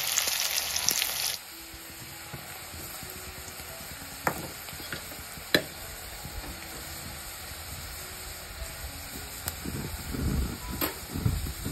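Sliced onions frying in hot oil in a wok: a loud sizzle that drops after about a second and a half to a steady, quieter sizzle. There are a couple of sharp clicks in the middle, and stirring and scraping in the pan near the end.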